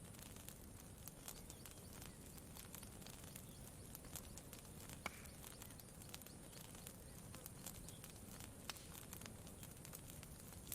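Campfire crackling quietly: scattered, irregular pops and snaps, the sharpest about five seconds in, over a steady low rumble.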